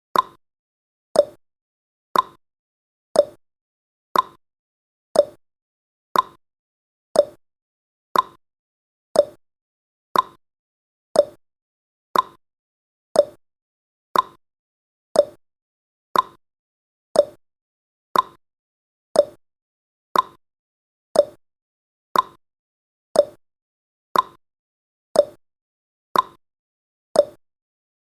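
Clock-tick sound effect of a countdown timer: sharp ticks, one each second, alternating between a higher and a lower tick like a tick-tock.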